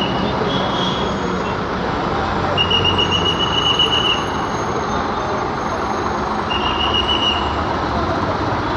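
Scania coach's diesel engine running as the coach reverses, under steady traffic noise. A high-pitched steady tone sounds twice, first for about a second and a half and then for under a second.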